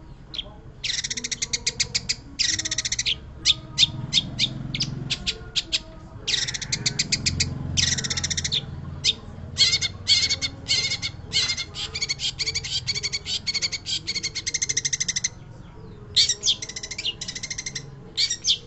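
Long-tailed shrike singing continuously: fast runs of harsh, scratchy chattering notes in several long bouts, with brief pauses between them.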